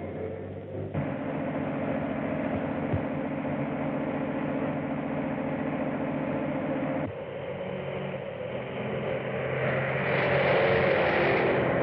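Engine running on an old film soundtrack, a steady mechanical noise that cuts in and out abruptly between shots, followed by a louder hissing rush near the end.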